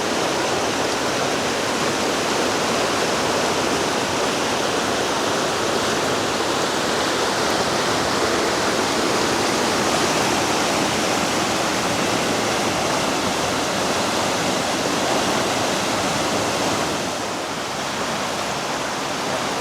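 Floodwater of a creek running far above its normal level, rushing steadily. It drops a little in level near the end.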